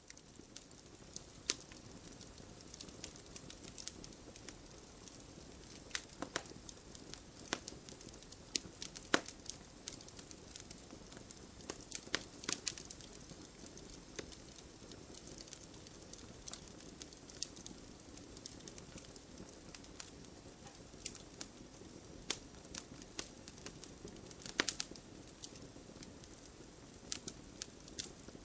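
Wood fire crackling in a fireplace: irregular sharp pops and snaps over a steady low hiss of the flames, with a few louder pops.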